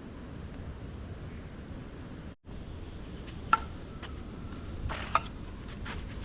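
Steady low outdoor background noise, cut off briefly about two seconds in, then two sharp clicks and a few fainter ticks.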